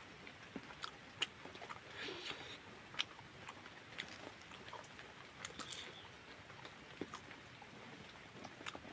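A person chewing a mouthful of rice and pork, with irregular wet mouth clicks and smacks.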